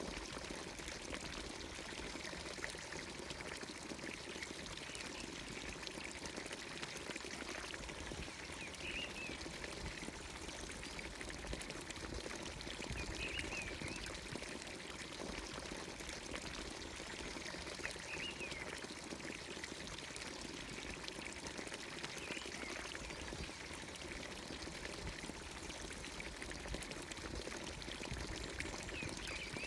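Water pouring steadily from a village fountain's spout into its trough, with a bird giving a short chirp every four or five seconds.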